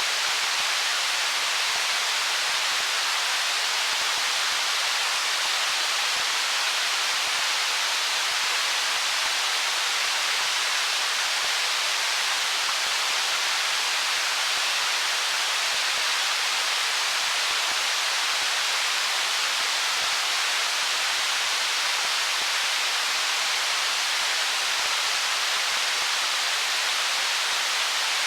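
Stream water rushing over stones, a steady, even rush that neither swells nor breaks.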